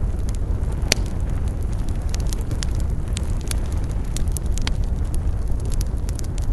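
Wood campfire crackling, with many quick snaps and a sharp pop about a second in, over a steady low rumble.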